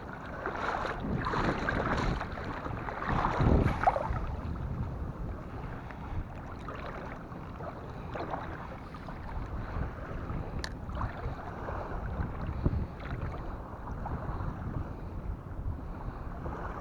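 Wind buffeting the microphone over water washing and lapping at the shore, with stronger gusts in the first few seconds.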